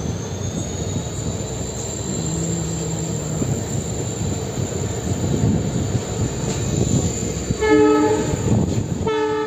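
A passenger train running on the rails, heard from on board as a steady rumble under a thin high whine that rises in the first second and then holds. Near the end a train horn sounds twice in short blasts.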